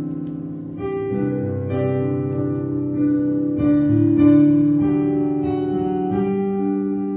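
Piano playing slow, sustained chords, with a new chord struck every second or so and each one left to ring.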